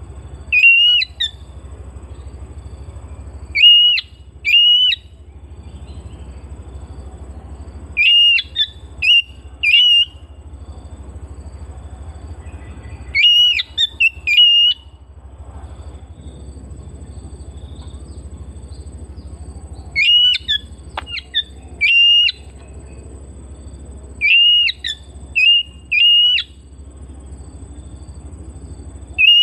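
Oriental magpie-robin (kacer) singing: short, loud whistled phrases in clusters of two or three, repeated every few seconds. A low hum and hiss fill the gaps between phrases.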